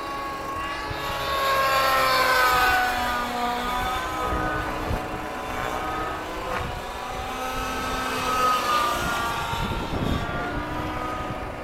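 Gaui NX7 nitro-engine RC helicopter in flight, its engine and rotor note gliding up and down in pitch as it manoeuvres, loudest a couple of seconds in.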